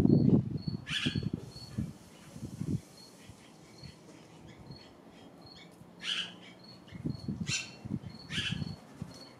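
Songbirds giving short, sharp chirps: a couple at the start and a quick run of three near the end. Under them a faint, even high chirp repeats about twice a second, like an insect. Low rumbling thumps come at the start and again near the end.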